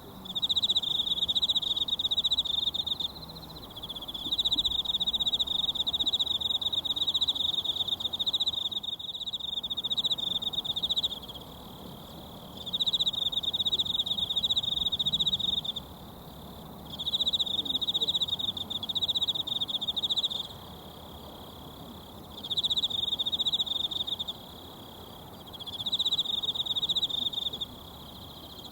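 An insect trilling in repeated high bursts of two to four seconds with short pauses, over the faint, even hiss of a mountain stream.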